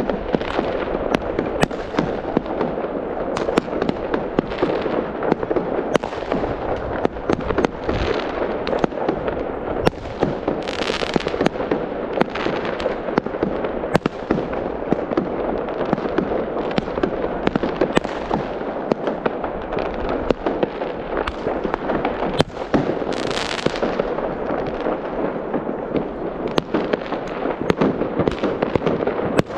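Fireworks display: a dense, continuous barrage of bangs and crackling from many shells bursting one over another, with two louder hissing swells, about a third of the way in and again about three-quarters of the way in.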